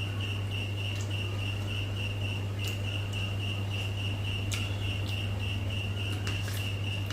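A cricket chirping steadily in quick even pulses, about five a second, over a steady low hum, with a few sharp clicks now and then.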